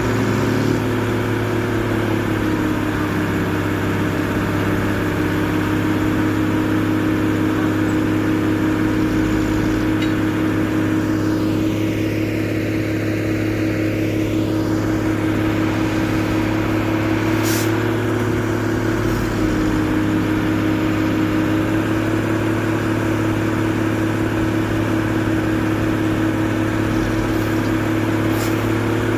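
Diesel truck engine running steadily, its pitch shifting slightly a couple of times.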